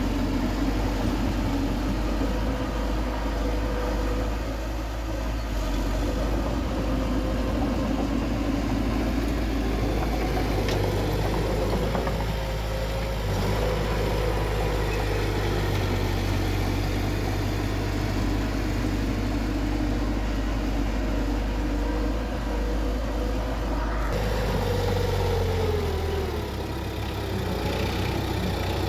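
Heavy earthmoving machine's diesel engine running steadily, its pitch dropping once near the end.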